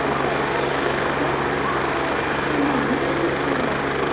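Agusta A109E twin-turbine helicopter running steadily on the ground.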